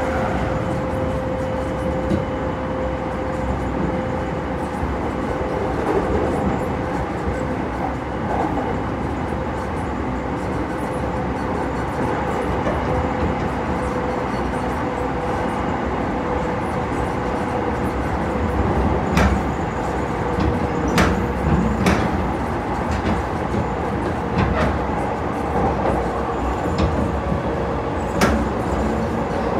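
Electric commuter train cruising at steady speed, heard from inside the passenger car: a continuous running rumble with a steady motor whine. In the second half come a handful of sharp clacks as the wheels pass rail joints.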